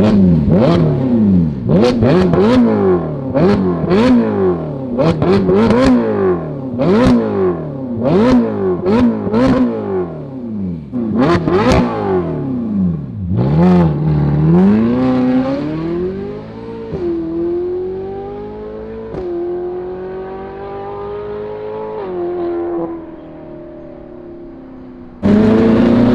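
Ferrari California's 4.3-litre V8 through a titanium cat-back exhaust, revved again and again, about once a second, with sharp cracks on many of the revs. It then pulls away through the gears, the pitch climbing and dropping at each of three upshifts as it fades. Near the end the engine comes back suddenly loud and rising.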